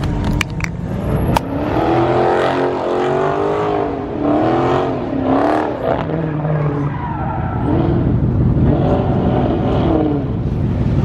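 Car engine revving hard again and again, its pitch climbing and dropping with each rev, with a few sharp clicks in the first second or so.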